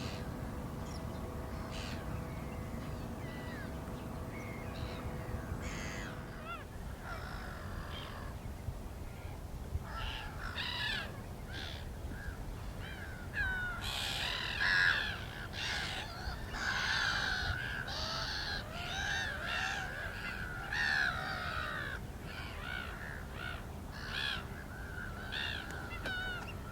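Black-winged stilts calling: short, sharp, repeated yelping calls, scattered at first and then coming thick and overlapping from about halfway through, over a steady low rumble.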